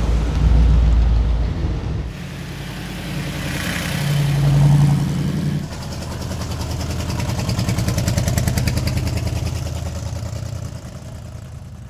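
Hot rod engines running as old cars drive past, in a few shots joined by abrupt changes. The last stretch is one engine with an even, quick pulsing exhaust beat that fades away near the end.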